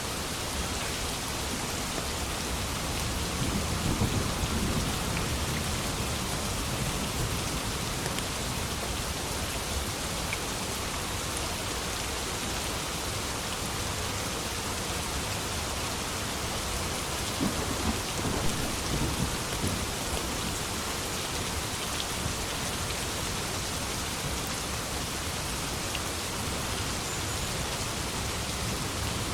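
Steady rain with low rolls of thunder, one a few seconds in and another about two-thirds of the way through.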